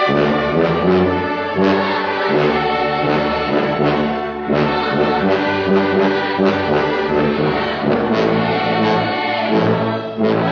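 Instrumental hymn played by a brass-led ensemble, trombones prominent, in slow sustained chords that change every second or two.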